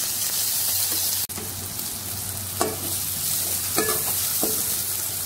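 Chopped tomatoes, salt and chilli powder dropped into hot oil in a metal pan, sizzling loudly at first, then frying on more softly while a metal spoon stirs them, with a few short scrapes against the pan.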